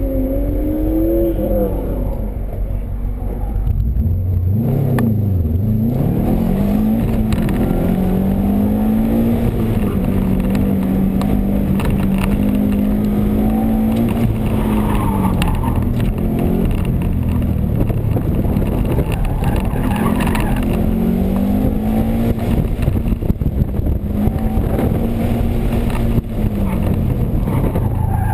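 Subaru WRX's turbocharged flat-four engine, heard from inside the cabin under hard driving on an autocross course. Its pitch climbs and drops repeatedly and is often held level for several seconds at a time.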